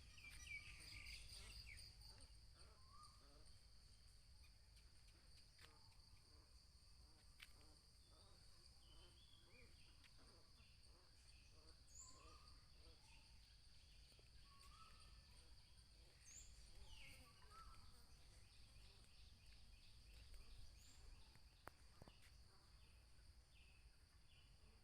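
Faint countryside ambience: insects keep up a steady high-pitched drone, with scattered short bird chirps over it.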